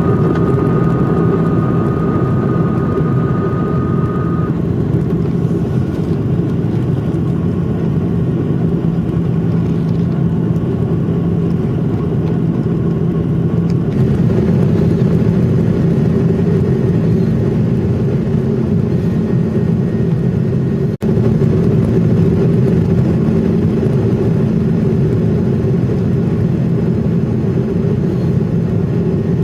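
Jet airliner's engines running, heard inside the passenger cabin as a loud, steady rumble and whine. The tone shifts about halfway through, and the sound drops out for an instant near two-thirds of the way.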